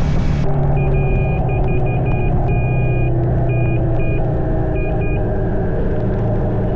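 Triumph Speed 400's 398 cc single-cylinder engine running steadily on the move. A high electronic beep sounds on and off in short and longer pulses through the middle, and a rushing hiss of wind or rain cuts off about half a second in.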